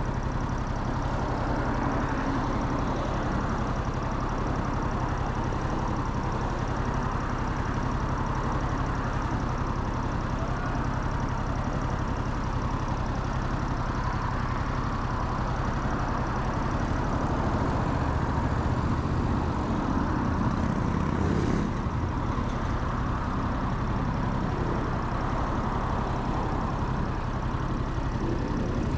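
Motorcycle engine idling steadily, its pitch holding level throughout.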